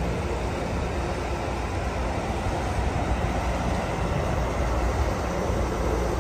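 Amtrak Pacific Surfliner train at the station platform, its diesel locomotive running with a steady low rumble.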